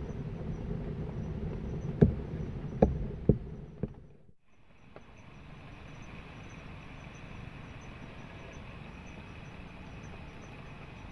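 Steady rain noise with four sharp knocks between about two and four seconds in. It drops out briefly near four seconds and comes back as a quieter, even hiss with a faint high tone.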